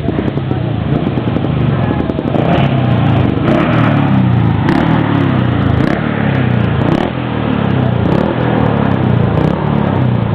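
A competition vehicle's engine accelerating hard up the hill, its pitch climbing and dropping back several times as it changes up through the gears.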